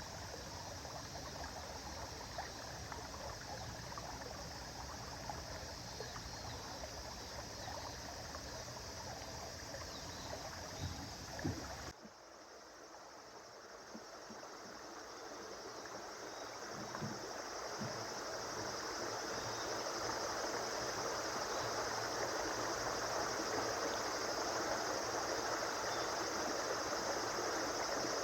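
River water flowing in a steady rush. About twelve seconds in the sound changes abruptly to a different stretch of stream with less low rumble, which then slowly grows louder.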